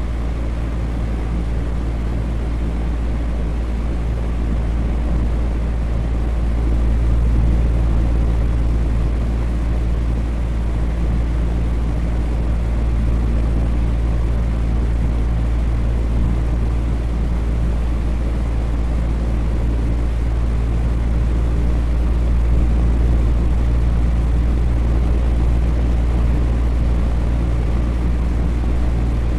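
Electric fan running steadily: a continuous airy whoosh with a low hum from the motor, swelling slightly now and then.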